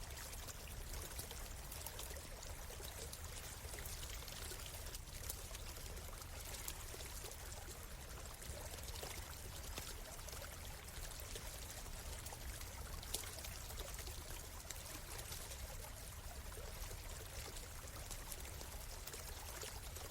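Forest stream flowing with a steady rush of water, and a campfire crackling now and then with sharp little pops over it.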